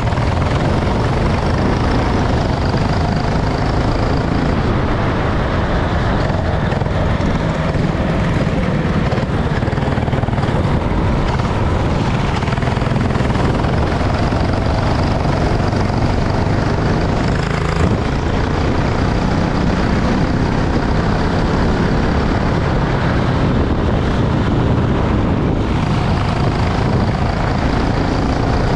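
Racing kart engine running continuously under a steady rush of wind and road noise, its pitch rising and falling only slightly.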